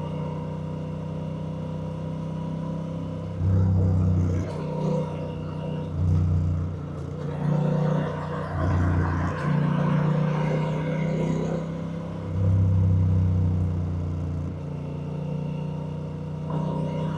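Honda Rebel 1100's 1084 cc parallel-twin engine running at a steady road speed, getting louder in several short stretches of a second or two, with little change in pitch.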